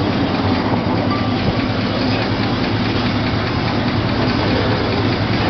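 Chevrolet El Camino's engine idling with a steady low rumble.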